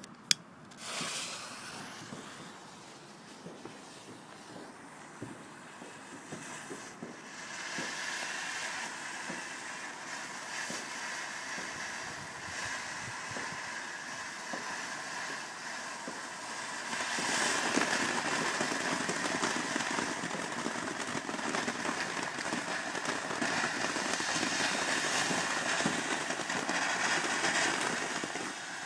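Ground firework fountain hissing and crackling as it sprays sparks, after a single sharp crack at the start. It builds about seven seconds in and gets louder again about halfway through.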